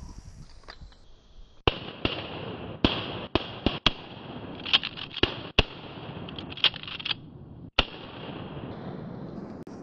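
Volley of shotgun blasts from several duck hunters, about ten shots at uneven spacing, some close and loud and others fainter, over about six seconds.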